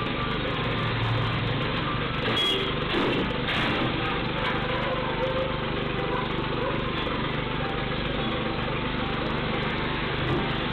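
Steady vehicle engine and road noise, with a few brief clicks about two and a half and three and a half seconds in.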